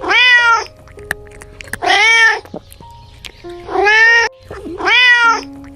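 Domestic cat meowing four times, each meow long and drawn out.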